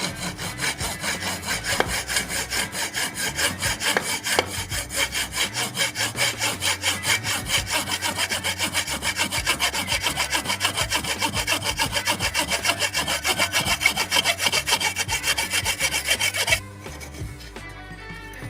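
A blade being sharpened with rapid, even back-and-forth rasping strokes, several a second, which stop abruptly near the end.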